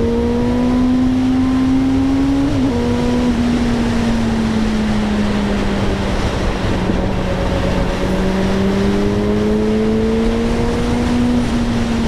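Suzuki GSR 600's inline-four engine running under way. Its note climbs, kinks briefly about two and a half seconds in, eases down, and climbs again near the end, over a steady rush of wind noise.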